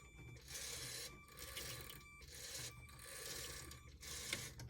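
Lego Power Functions motor whirring through plastic gears, running in uneven spells with short breaks.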